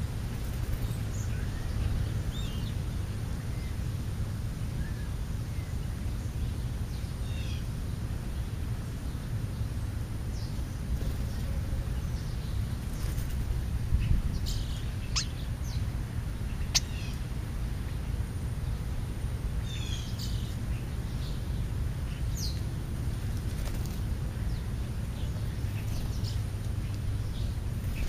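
Birds giving scattered short chirps and calls over a steady low rumble, with two sharp ticks about halfway through.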